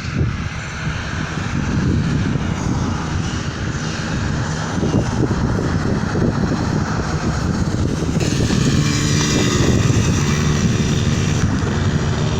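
Small dirt bike engine running steadily, with a low engine drone that grows a little louder and more pitched in the second half.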